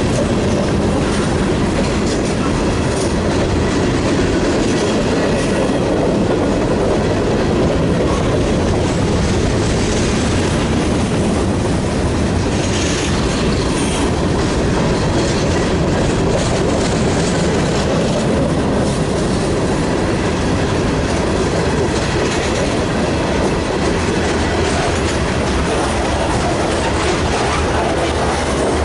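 Freight train cars rolling past on the rails, wheels clacking over the rail joints, with brief wheel squeal about halfway through.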